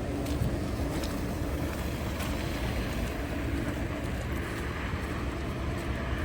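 Steady low rumble of city street ambience with a faint hum and a few light ticks.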